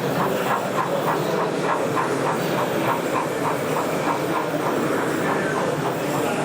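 Model train running along the layout, its wheels clicking over the rail joints in a steady rhythm of about four clicks a second, over a constant background haze.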